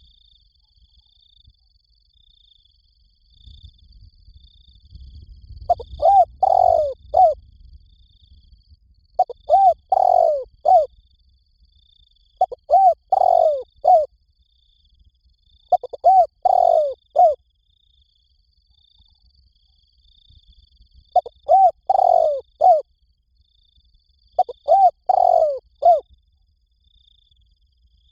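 Spotted dove cooing: a loud phrase of three or four coos, repeated six times about every three seconds, starting about six seconds in, with a longer pause before the last two.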